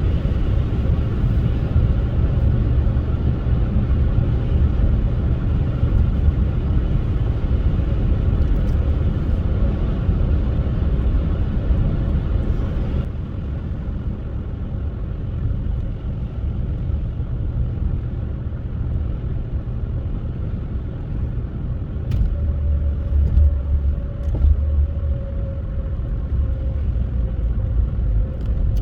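Steady low rumble of a car driving on a snowy road, mostly road and engine noise. It drops a little about halfway through, and a faint steady whine comes in near the end.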